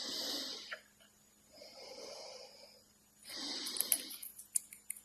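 Rhythmic snoring-like wheezes, three in a row about a second and a half apart, each a hissing rasp. A few sharp clicks come near the end.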